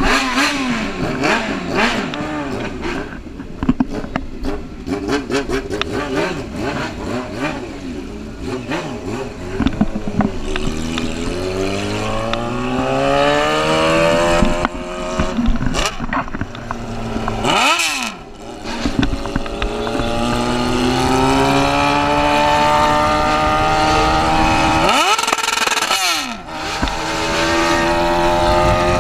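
Motorcycle engine accelerating hard, its pitch climbing in long sweeps, with the throttle cut sharply twice and then picked up again; the first part is choppy and uneven.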